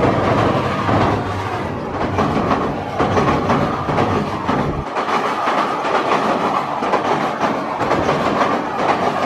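Passenger train passing close by on a steel truss bridge: a diesel locomotive's deep engine rumble, then, about five seconds in, the deep rumble drops away and the coaches' wheels clatter over the rails.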